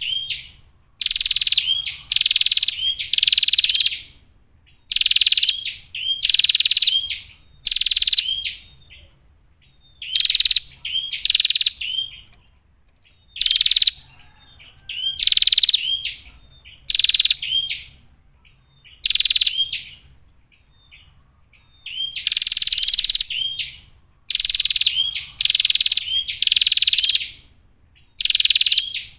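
Female prenjak, a small Javanese songbird, giving loud, short, buzzy calls in quick runs of two to four, each run separated by a brief pause.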